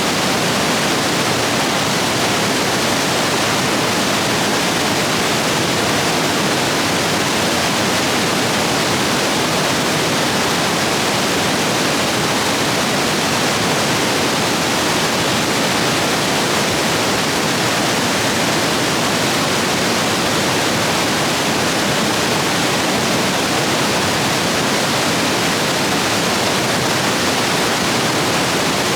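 Rushing rapids in a rain-swollen stream, a loud, steady roar of white water with no change throughout.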